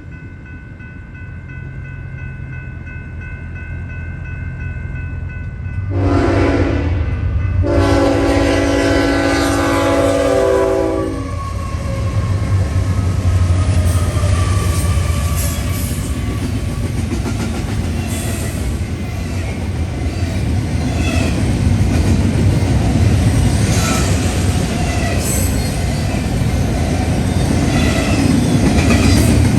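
Eastbound BNSF intermodal freight train approaching and passing behind diesel locomotives. Its rumble grows, the locomotive's multi-chime air horn sounds a short blast and then a longer one, and the train rolls past with its wheels clicking over the rail joints.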